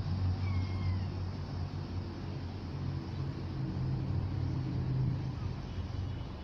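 Irish Rail 29000 Class diesel multiple unit running with a steady low diesel drone. A brief faint high squeal comes about half a second in.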